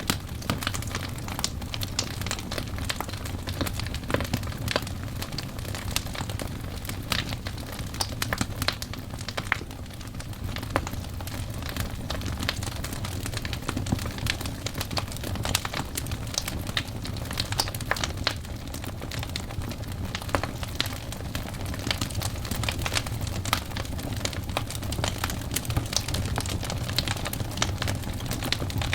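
Wood fire burning, the logs crackling and popping irregularly over a steady low rumble of the flames.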